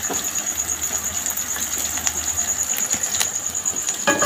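Noodle omelette frying in hot oil in a wok: a steady sizzle, with a spatula working in the pan near the end.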